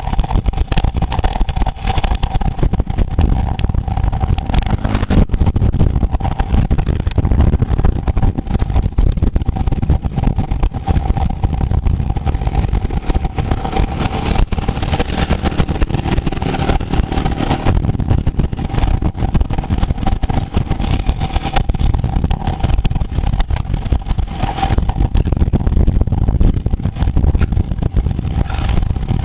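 Steady rush of wind and road noise on a microphone travelling with a road bike race, with a thin steady whine throughout.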